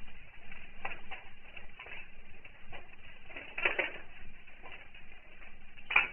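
Campfire crackling: irregular pops and snaps over a low hiss, with a louder cluster of pops a little past halfway and another sharp pop near the end.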